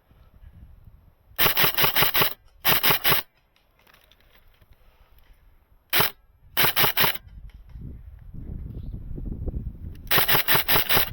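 Airsoft electric guns firing rapid full-auto bursts of sharp clicking shots: a burst of about a second, a short one, a single shot about six seconds in, another short burst, and a longer burst near the end. Wind rumbles on the microphone in the second half.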